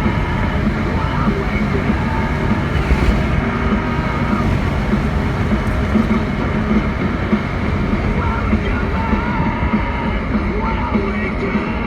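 Steady, loud engine rumble with music playing over it.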